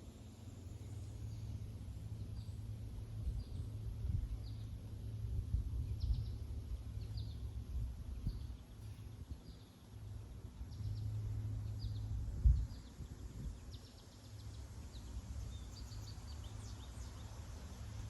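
Wild birds chirping: short high cheeps repeated about once a second, over a steady low rumble.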